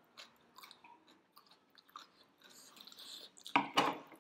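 Chewing of momo dumplings, with small wet mouth clicks, then a short loud breathy burst in two quick puffs about three and a half seconds in.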